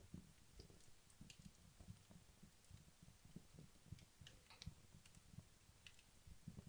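Faint crackling of wood logs burning in a fireplace: soft irregular low pops with a few sharp, high ticks.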